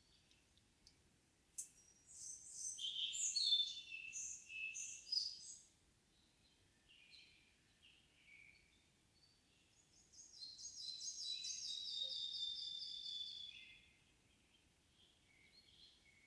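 Songbirds singing in a forest: a varied warbling phrase about two seconds in, then a long run of rapidly repeated high notes starting about ten seconds in, with soft chirps between.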